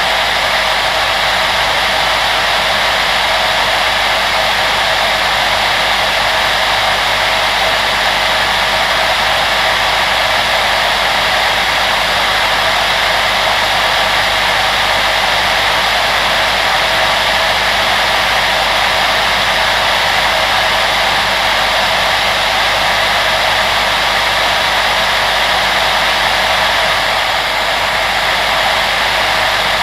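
Electric fan-blower appliance running continuously, a steady whooshing rush of air with a faint motor hum underneath.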